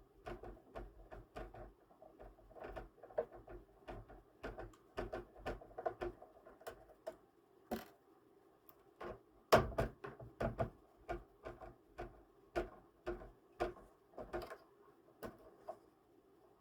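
Irregular small clicks and taps of a screwdriver working screws out of a laptop's plastic case, with a sharper knock about nine and a half seconds in.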